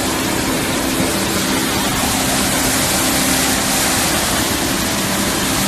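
A loud, steady rush of water, even and unbroken throughout.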